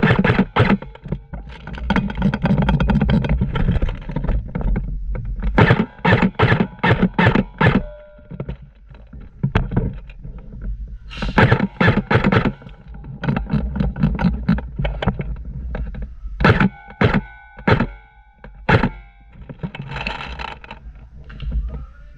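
Airsoft guns firing: strings of sharp snapping shots, several a second, with short pauses between the strings. Low rumbling noise comes in under some of the strings.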